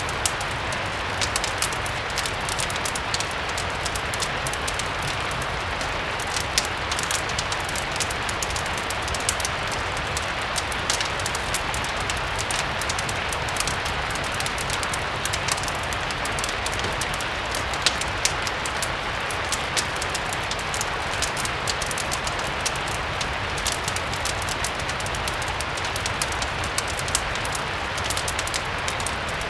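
Steady rain mixed with the crackling of a fireplace, with frequent small sharp pops and clicks scattered over an even hiss.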